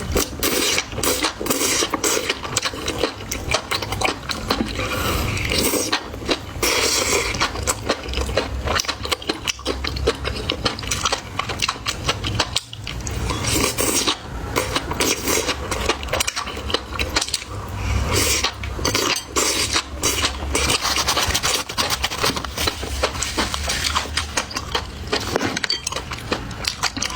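Close-miked chewing and crunching of food, with dense, irregular crackly clicks.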